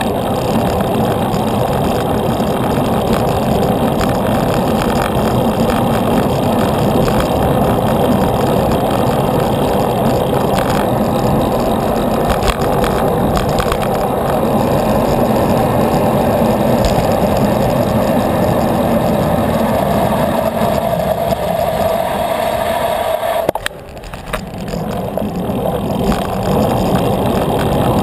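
Steady, loud road noise recorded from a moving bicycle, a rushing mix of wind and traffic sound, dipping briefly about three-quarters of the way through before building back up.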